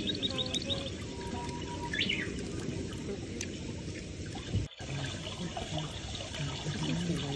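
A bird chirps briefly over a steady outdoor hiss. The sound cuts out for an instant about two-thirds of the way through.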